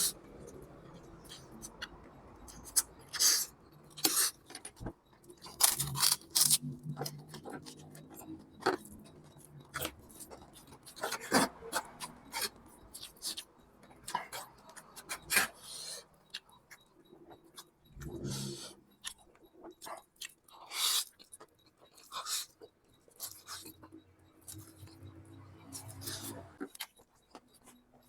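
A person eating instant noodles, with irregular chewing and slurping sounds.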